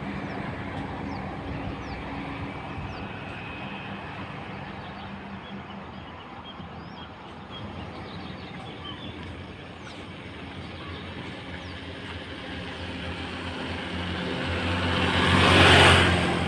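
Roadside highway traffic: a steady hum of vehicles, then one vehicle's engine growing louder and passing close near the end.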